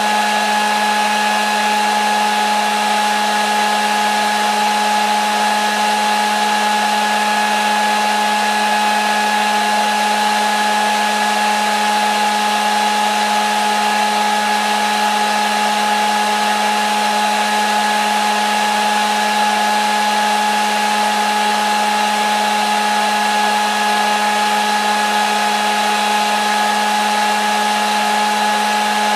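Hair dryer running steadily, a constant whirring hiss with a fixed motor hum and whine that never changes, used as white noise to lull a baby to sleep.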